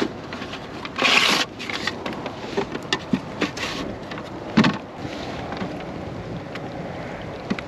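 Knocks and clatter of handling in a fishing kayak, with a brief rush of noise about a second in and a heavier thump just past halfway.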